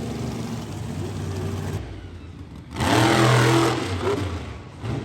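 Monster truck engine running, then revving loudly about three seconds in before easing off.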